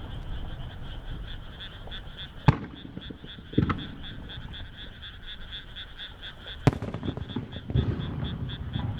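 Two sharp fireworks shell bursts about four seconds apart, each followed about a second later by a duller, lower thud. Under them, frogs croak in a fast, steady pulsing chorus.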